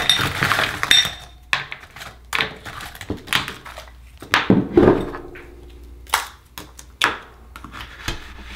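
Akoya oyster shells and an opening tool being handled: a run of sharp, irregular clacks and knocks of hard shell on shell and metal, with a short ringing clink near the start.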